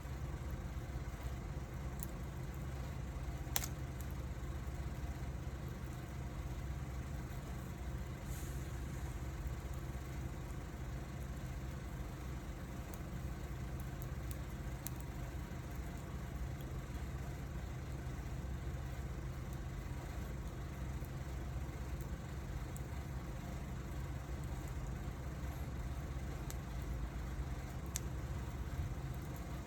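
Wood fire burning: a steady low rush with scattered crackles and pops, the sharpest about three and a half seconds in and another near the end.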